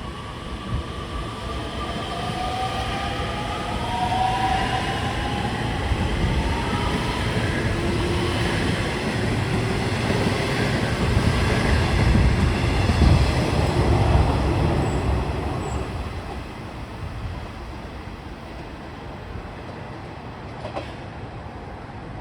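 Nishitetsu 3000 series seven-car electric train pulling away: a motor whine rising in pitch as it accelerates, then a rumble of wheels on the rails that is loudest a little past halfway and fades away near the end.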